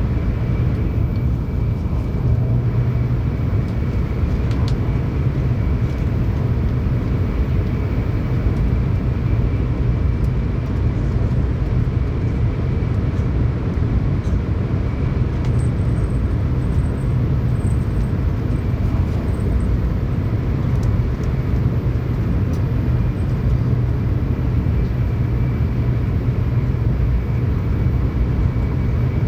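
Tokaido Shinkansen train running at speed, heard from inside the passenger car: a steady low rumble and rush, with a faint high whine over it.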